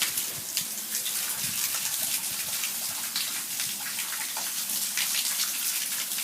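Heavy thunderstorm rain pouring steadily, a dense hiss with many sharp patters of drops striking nearby surfaces.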